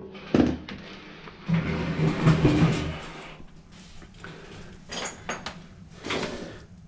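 Knocks, clatter and scraping of hard parts and tools being handled during a dryer repair: a sharp knock early, a longer rough clattering stretch, and a few more clicks near the end.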